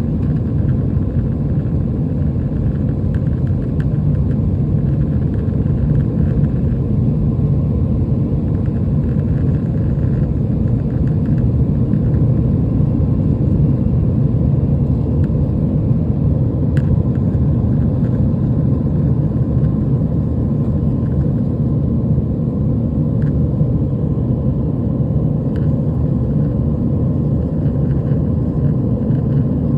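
Airbus A320 cabin noise: a steady low drone of the jet engines and airflow heard from inside the passenger cabin, with a few faint clicks.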